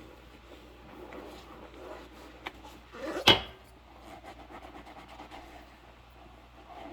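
Hand dishwashing in rubber gloves: soft rubbing and handling noises, with one loud knock of dishware that rings briefly a little over three seconds in.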